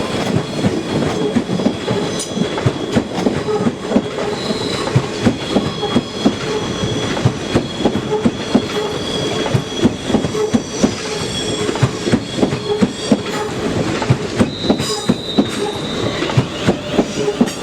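Passenger train rolling slowly round the curved platform line. Its wheels clatter over rail joints in quick, uneven clicks, under a steady high-pitched squeal of wheel flanges on the curve.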